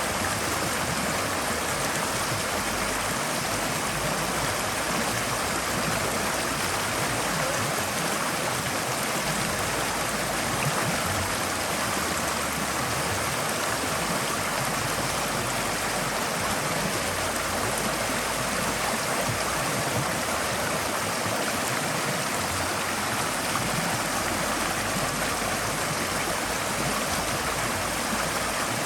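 Forest stream flowing over rocks: a steady, even rush of water with no change in level.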